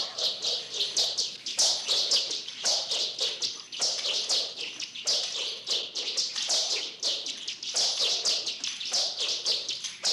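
Birds twittering in a dense run of quick chirps, coming in bunches about a second long, that starts abruptly.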